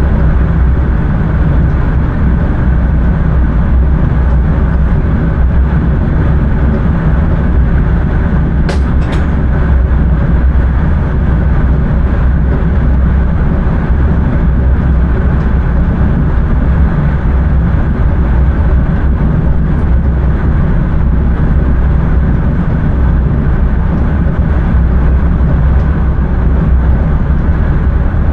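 Intercity train running along the line, heard from the driver's cab: a steady low rumble of wheels and running gear, with two short clicks about nine seconds in.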